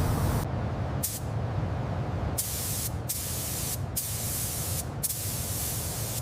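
Pressurised spray hissing in repeated on-off bursts of about half a second to a second, with short gaps between them, over a steady low hum.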